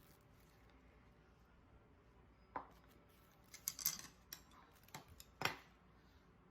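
Tableware clicking and clattering: after a quiet start, a handful of short, sharp knocks and clinks come over about three seconds, the loudest near the middle.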